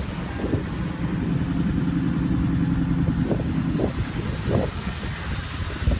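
Toyota Tundra pickup's engine idling steadily, with a few short faint sounds in the middle.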